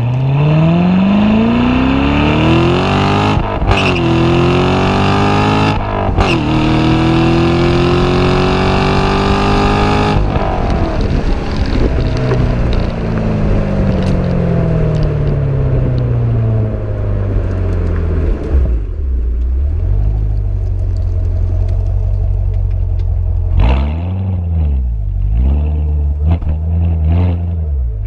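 Stock exhaust of a 2014 Chevrolet Corvette C7's 6.2-litre LT1 V8 under hard acceleration: the pitch climbs steeply and breaks twice as it shifts up a gear. About ten seconds in the throttle is lifted and the pitch falls away slowly to a low steady drone, followed near the end by a few short throttle blips.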